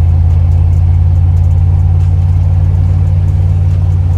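A vehicle's newly installed exhaust with a turn-down tip droning steadily at a low pitch while driving at an even speed.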